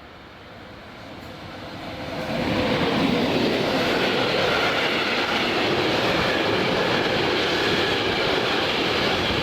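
A train running through the station: the rail noise swells over the first two to three seconds as it comes close, then holds loud and steady as it passes.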